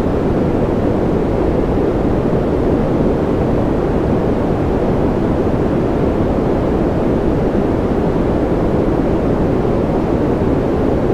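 Steady, unchanging sleep noise, a deep even rush weighted toward the low end with little hiss.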